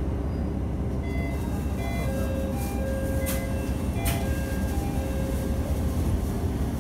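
MR-600 diesel railcar running along the line, heard from aboard: a steady low rumble of engine and wheels on rail. Two sharp clicks and several short high-pitched tones come near the middle.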